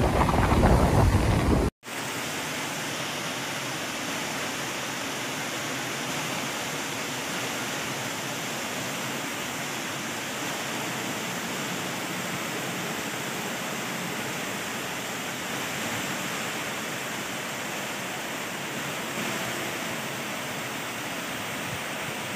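Wind buffeting the microphone over breaking surf, cut off about two seconds in; then a steady, even hiss of heavy rain.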